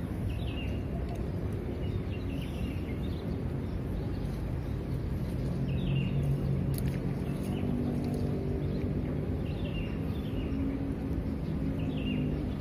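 Small birds giving short falling chirps every second or two over a steady low background rumble that swells slightly about halfway through.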